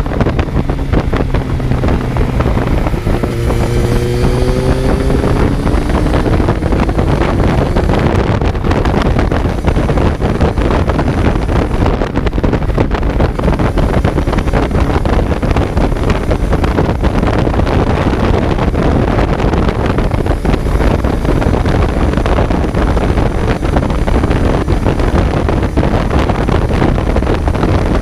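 Kawasaki Z900's inline-four engine under way, with heavy wind rush on the microphone. About three seconds in, the engine note climbs as the bike accelerates; after that, wind and road noise mostly cover the engine.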